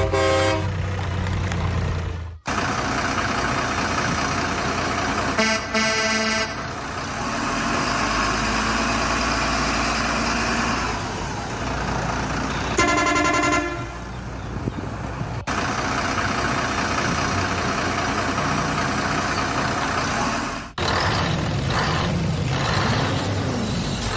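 Heavy truck engine running, with two horn blasts: one about five seconds in and a shorter one about halfway through. The engine sound shifts abruptly a few times.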